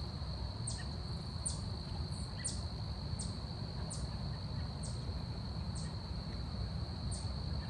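Forest ambience: a steady high-pitched insect drone, with a short, very high chirp repeating about once every second. Under them runs a low rumble.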